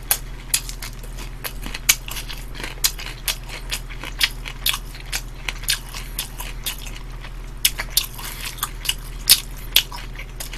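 Close-miked chewing of fried chicken: irregular sharp crunches and wet smacks, several a second, over a steady low electrical hum.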